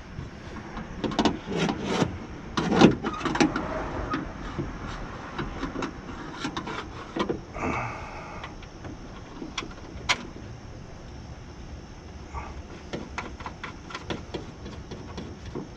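Clicks and knocks of parts being handled inside a car door, and about eight seconds in a brief steady whine from the new power-window regulator motor being test-run with no glass attached.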